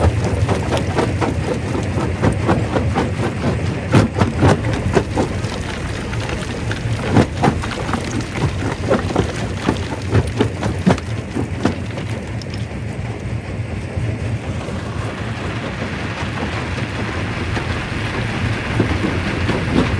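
Primary rock crusher running under load, with rock knocking and cracking over a steady low machine hum; the knocks thin out about twelve seconds in, leaving a steadier grinding run.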